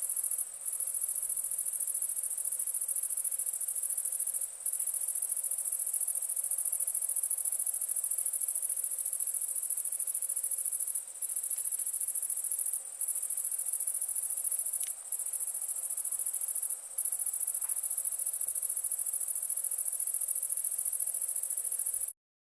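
Night chorus of crickets: a continuous high-pitched trilling that breaks off for a split second about six times. There are a few faint snaps of a crackling wood campfire beneath it, and the sound cuts off abruptly near the end.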